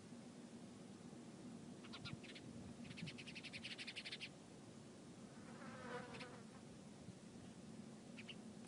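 Faint small-bird calls: a few short high chirps, then a rapid trill of about ten notes a second lasting over a second. A lower call follows about six seconds in, with more chirps near the end.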